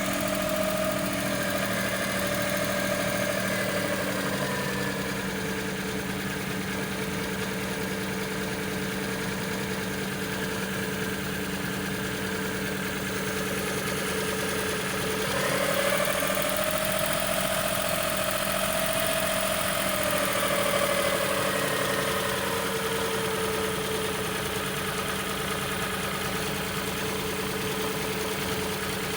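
Suzuki F6A three-cylinder engine idling unevenly, its revs hunting up and down: they sag over the first few seconds, then about halfway through jump up quickly, hold for several seconds and slowly fall back.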